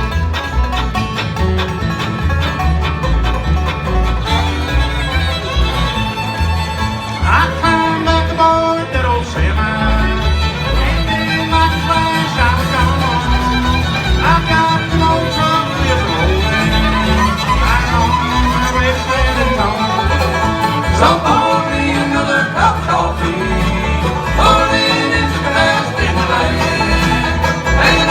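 Live bluegrass band playing an instrumental break, the fiddle carrying a sliding lead melody over banjo and guitar, with a steady pulsing bass line.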